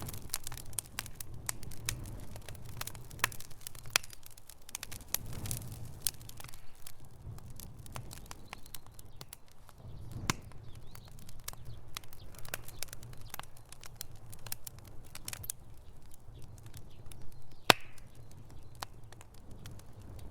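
Wood fire crackling in a fireplace: irregular sharp pops and snaps over a low steady rumble, with one loud pop near the end.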